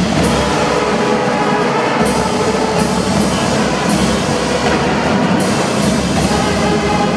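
Marching drum band playing: drums under held melodic notes, with several sharp cymbal crashes along the way.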